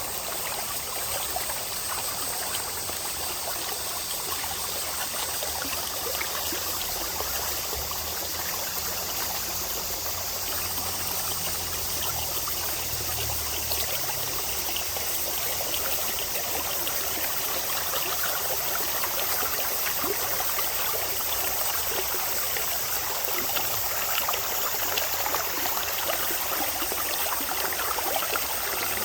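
Mountain valley stream flowing over rocks, a steady rushing and trickling of water.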